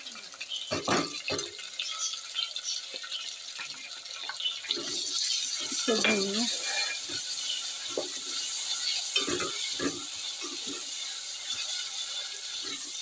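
Onions, tomato and ginger-garlic and green chilli pastes frying in oil in a metal pot, a steady sizzle that grows louder about five seconds in, while a spoon scrapes and knocks against the pot as the mixture is stirred.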